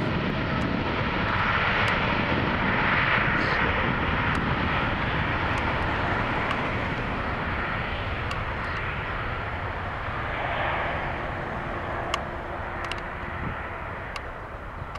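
Boeing 787-8 Dreamliner's GE GEnx turbofans running at takeoff thrust as the jet begins its takeoff roll. A loud, steady jet noise, loudest a few seconds in and slowly fading toward the end.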